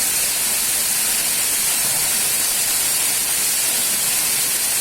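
Waterfall heard close by: a steady, even rush of falling water, mostly a high hiss, with no change in level.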